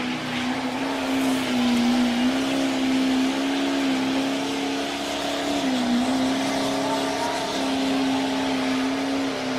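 A vehicle engine running steadily under a wash of mechanical noise, its pitch dipping briefly about six seconds in before recovering.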